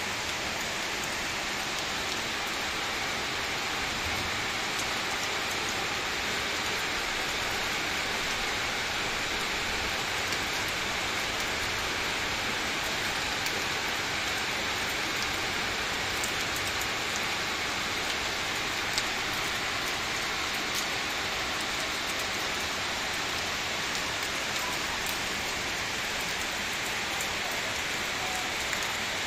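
Steady rain falling on roofs and wet ground: an even hiss with a few sharper ticks of single drops.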